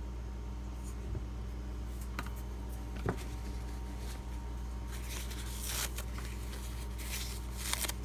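Light handling sounds at a knife-sharpening bench: a few soft clicks, then two brief brushing swishes near the end, over a steady low electrical hum.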